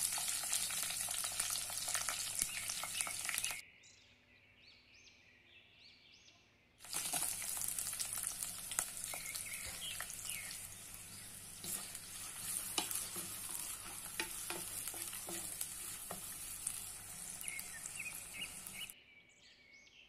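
Crushed ginger, garlic, curry leaves and shallots sizzling and crackling in hot coconut oil in a clay pot. The sizzling stops about three and a half seconds in, comes back about three seconds later, and stops again near the end.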